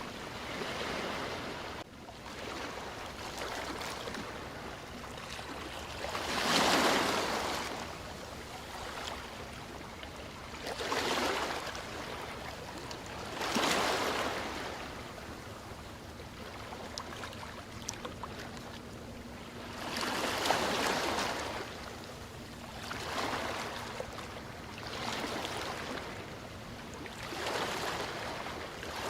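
Ocean waves breaking and washing up in a steady surf, swelling and falling back every few seconds, with the biggest surges about seven, fourteen and twenty seconds in.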